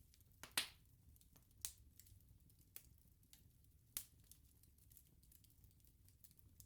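Wood bonfire crackling: sharp snaps and pops from the burning wood, the loudest about half a second in and a few more spread over the next few seconds, over a faint low hiss.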